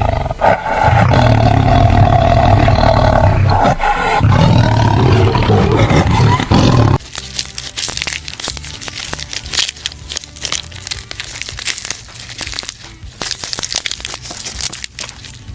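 A large wild animal roaring in long, loud calls for about seven seconds, cut off suddenly. Then come quieter, irregular crunching and crackling clicks.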